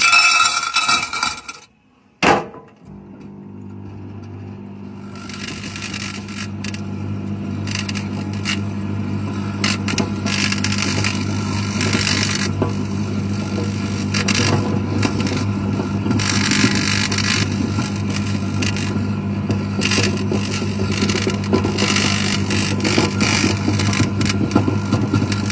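A brief loud burst of noise, then a clunk as a microwave oven starts and settles into its steady hum. From about five seconds in, irregular crackling comes and goes over the hum: metal inside the oven arcing and sparking.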